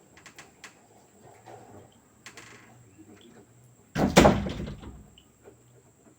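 A single loud bang about four seconds in that dies away over about a second, with a few faint clicks before it.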